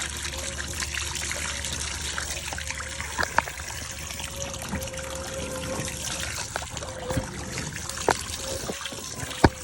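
Water rushing and trickling from a hydro-jetter clearing a clogged drain, with a steady hum underneath and a few sharp knocks.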